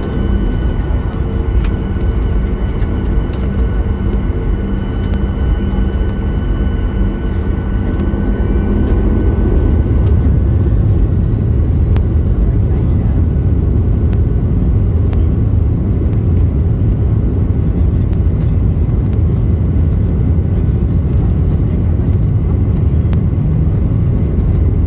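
Boeing 737-800 jet engines heard inside the passenger cabin: a steady engine hum with high whining tones, then about nine seconds in a deep rumble builds and takes over as the takeoff roll gets under way.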